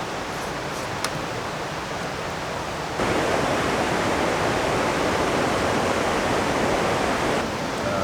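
River rapids rushing, a steady wash of water noise that becomes abruptly louder about three seconds in and eases slightly near the end.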